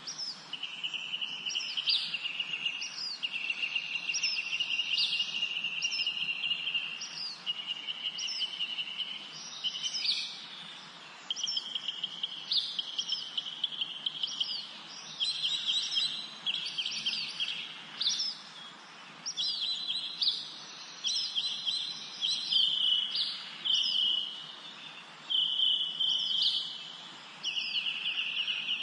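Several songbirds singing together in a spring forest chorus: long trilled phrases near 3 kHz follow one after another, while another bird repeats short, high, downward-slurred notes about once a second, over a faint background hiss.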